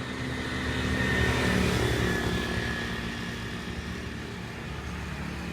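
A road vehicle's engine passing by, growing louder about a second in and then fading away.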